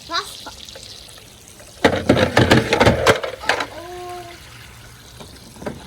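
A toy truck hitting pool water about two seconds in, with a burst of splashing that lasts about a second.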